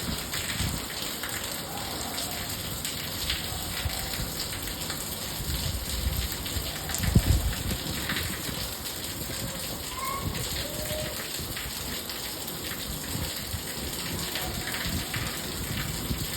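Steady light rain, a drizzle, falling as an even hiss of many small drops, with a brief low thump about seven seconds in.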